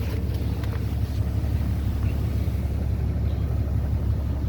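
Cummins 6.7-litre turbo-diesel inline-six of a 2010 Ram 3500 idling, a steady low rumble heard from inside the cab.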